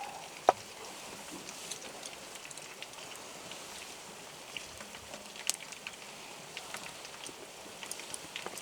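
Wood campfire crackling: scattered irregular snaps, with one sharp pop about half a second in, over a steady hiss.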